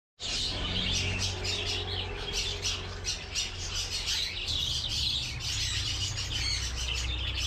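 Many caged birds chattering and squawking together, a dense stream of short high calls, over a low steady hum.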